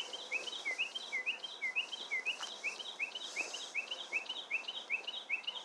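Bird song played through a speaker to lure birds: a fast, very even run of short chirps, about three or four a second, each sliding down and then up in pitch.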